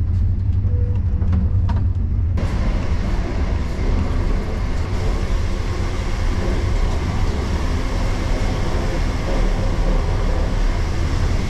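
Moving passenger train heard from inside the carriage: a steady low rumble, with a louder, hissing running noise setting in suddenly about two seconds in and holding steady.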